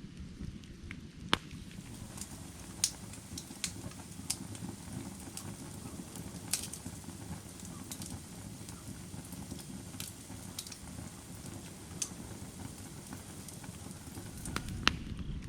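Firewood burning: a steady low rush of flame with sharp crackles and pops at uneven intervals, a few of them louder snaps.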